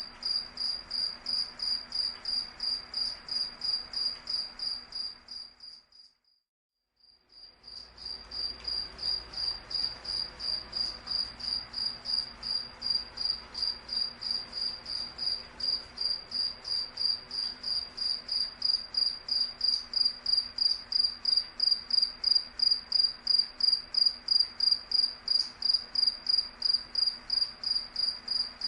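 A cricket chirping in a steady, even rhythm, about three high-pitched chirps a second. The sound fades out about six seconds in and comes back a second or so later.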